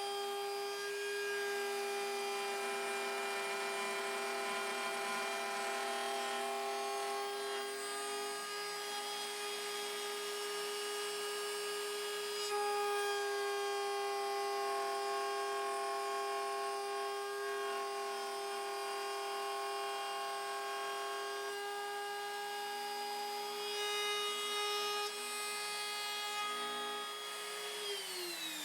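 Bosch Colt trim router running at a steady high whine while it cuts a new saddle slot in a guitar bridge. Near the end it is switched off and its pitch falls quickly as the motor spins down.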